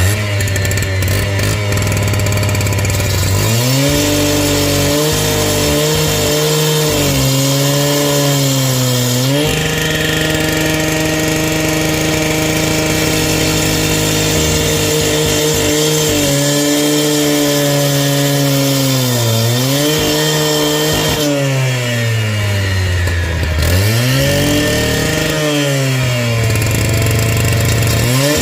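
A motorised power tool runs hard, its pitch sagging under load and picking up again several times while it cuts the trench.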